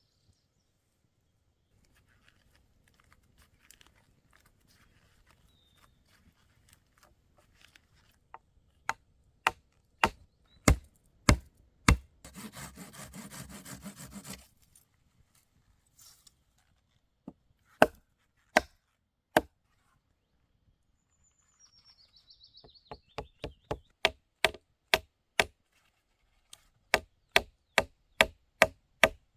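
Wood being struck with a tool in runs of sharp knocks, about one and a half blows a second, with a short rasping stretch of wood rubbing or sawing in the middle.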